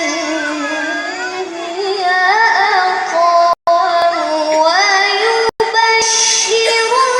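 A child reciting the Quran in the melodic tilawah style, holding long high notes with winding, melismatic ornaments. The sound cuts out completely for an instant twice, a little over three seconds in and again about five and a half seconds in.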